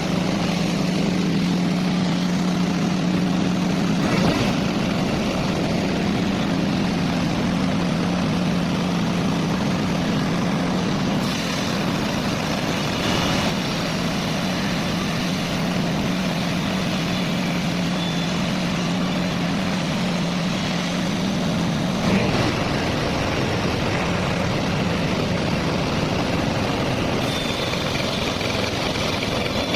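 A heavy engine running steadily with a low, even hum, and a couple of brief knocks, one about four seconds in and a louder one about twenty-two seconds in.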